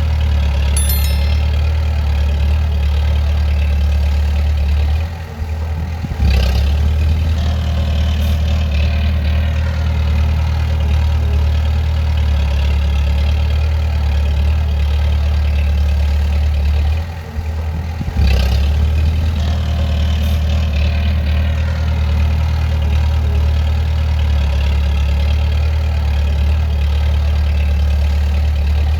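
Bulldozer's diesel engine running with a steady low drone. It eases off briefly twice, about 5 and 17 seconds in, then picks up again with a sharp clank each time.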